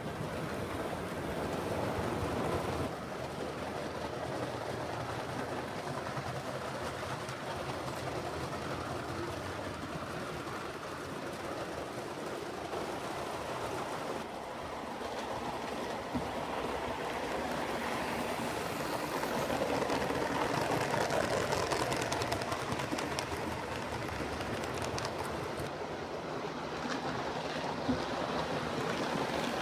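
7mm-scale model trains running on the layout's track: a continuous rumble of wheels on rail with fine irregular ticking, growing a little louder past the middle.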